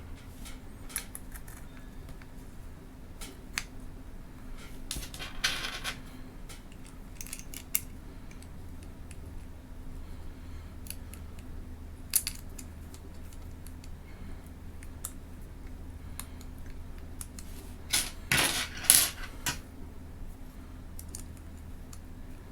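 Small camera mount brackets and adapter parts being handled: scattered light clicks and taps of hard metal and plastic pieces, with a brief rustle about five seconds in and a louder cluster of clicks and clatter near the end.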